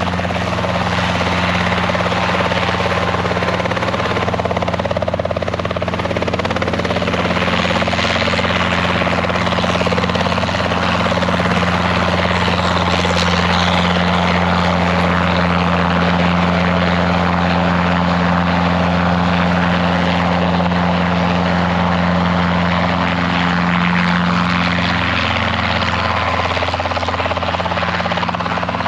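Robinson piston-engine helicopter running with its rotor turning, a loud, steady low hum that holds unchanged throughout.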